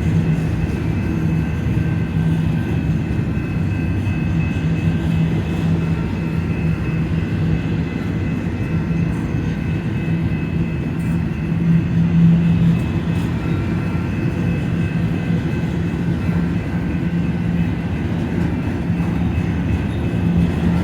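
Union Pacific freight train running steadily, with a low, even drone from its diesel locomotives.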